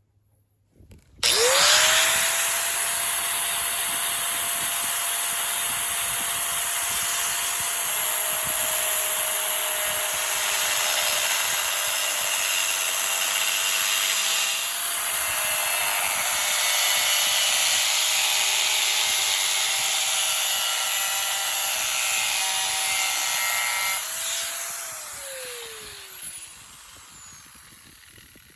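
An electric power tool starts about a second in and spins up quickly. It runs at a steady speed for some twenty seconds with a harsh, noisy sound of the tool working material, then is switched off and winds down, its pitch falling.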